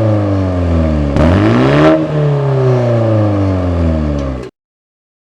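BMW G20 320i's turbocharged four-cylinder engine revved through a modified exhaust with a cut-open stock muffler: revs falling, a quick blip about a second in, then the revs sinking slowly back. The sound cuts off abruptly near the end.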